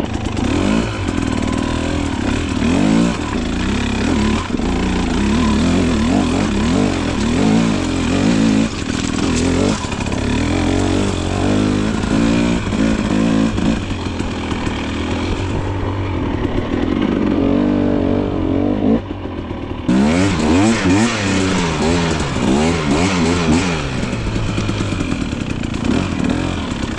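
Two-stroke KTM dirt bike engine being ridden, its pitch rising and falling again and again as the throttle is worked. A stretch of about four seconds past the middle sounds duller, then a quick run of revs follows.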